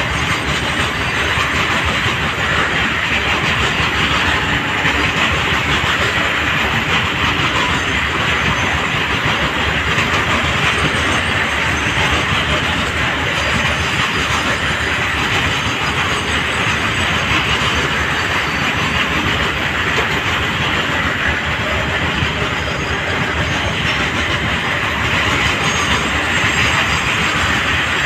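Indian Railways BOXN open freight wagons loaded with dolomite powder rolling steadily past at close range: a continuous, loud rumble and clatter of wheels on the rails.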